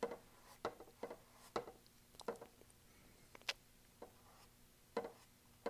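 Paintbrush flicking and dabbing acrylic paint onto a canvas: a handful of short, irregular taps and brush scuffs.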